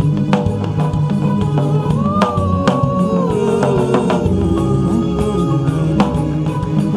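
Live gospel worship music: a drum kit keeping a steady beat under a sustained melody that slides up and down in pitch.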